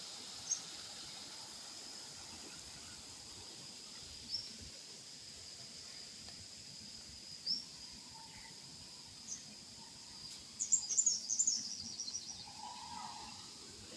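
Birds calling: single short high chirps every few seconds, then a quick descending run of notes about ten seconds in, over a steady high insect drone.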